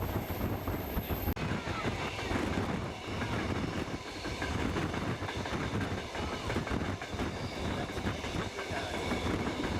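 Steam train under way: the carriages run along the rails with a steady rumble and a continuous rattle of short knocks.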